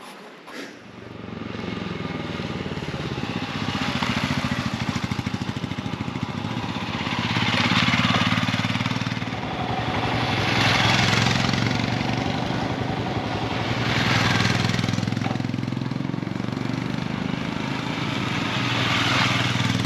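Motorcycle engine running while riding, coming in about a second in, with a rush of wind and road noise that swells and fades every three to four seconds.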